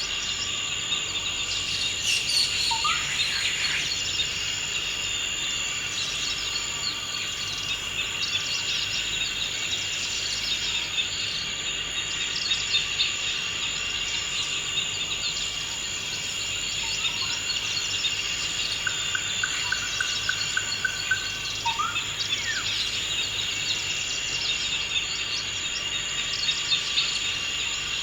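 Forest ambience: a steady high-pitched insect chorus like crickets, with birds chirping and calling over it. Among the calls are a few short rising chirps and, a little past the middle, a brief even trill.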